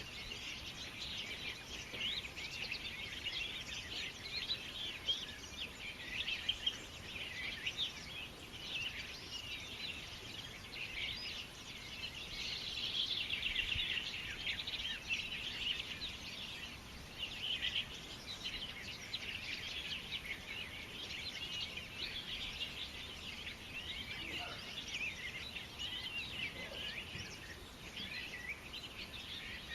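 Many small birds chirping and twittering together in a dense, continuous chorus, over a faint background hiss.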